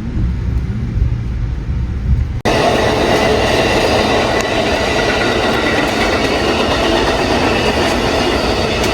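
Amtrak passenger train on the move: a low rumble, then an abrupt change about two and a half seconds in to louder, steady rail noise with a faint high squeal.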